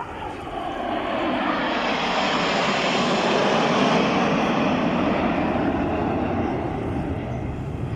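Aircraft engine noise of a low pass at an airshow, a broad rushing sound that swells to its loudest about halfway through and then fades as it passes.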